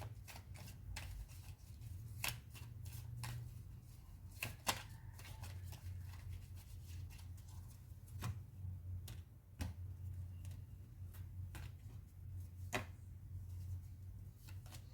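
Tarot cards being handled and drawn from the deck: scattered light taps and clicks of cards on a table, over a steady low hum.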